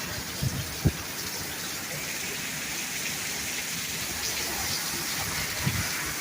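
Heavy downpour of rain pouring steadily, with a single low thump just under a second in.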